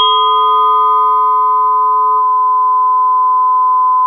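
A bell-like ringing tone added as a film sound effect, held at one steady pitch. Its lower and higher overtones fade out about two seconds in, leaving a single pure ring.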